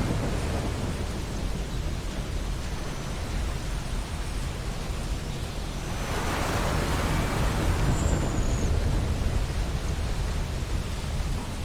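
Ocean surf washing on a beach: a steady rushing hiss with low rumble, and a wave surging in about six seconds in.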